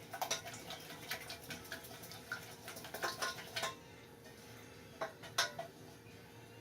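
A utensil stirring and tapping in a small pot of thinned glue: irregular clicks and scrapes for about three and a half seconds, then a few more taps about five seconds in.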